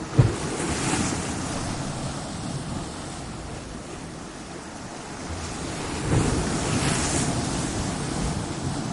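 Ocean waves breaking against coastal rocks. A sharp low thump as the first wave hits is followed by a long hissing wash that fades, and a second wave breaks about six seconds later.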